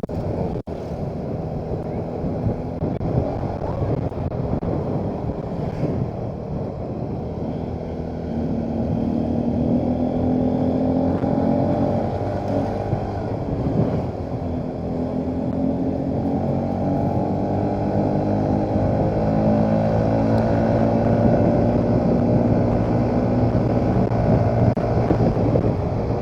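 Motorcycle engine running while riding, its pitch drifting up and down with the throttle.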